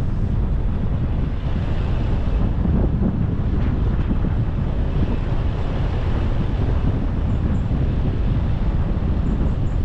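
Steady wind buffeting the microphone over the rumble of a car driving along a road.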